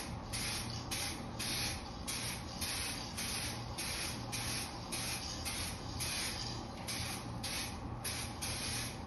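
Aerosol can of 2K clear coat spraying a light coat in short, even pulses of hiss, about two a second.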